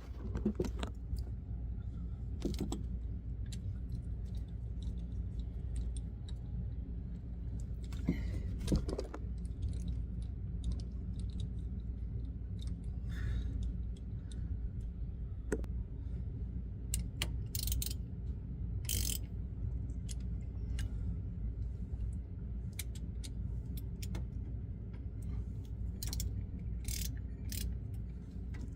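Scattered metallic clicks and clinks of hand tools being worked on bolts, with bursts of ratchet-like clicking, over a steady low hum.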